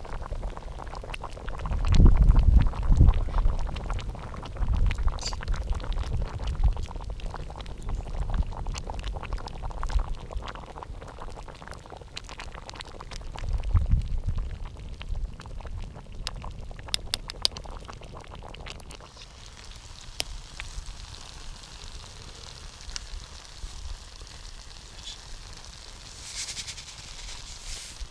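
Campfire crackling with scattered pops, mixed with low bumps and knocks from cooking work at the fire, heaviest about two seconds in and again around fourteen seconds; it settles to quieter crackling after the midpoint, with a short hiss near the end.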